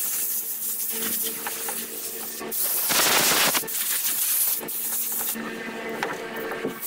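Power grinder running against a surface: a steady motor hum under a hissing, rasping grind that swells loudest about three seconds in.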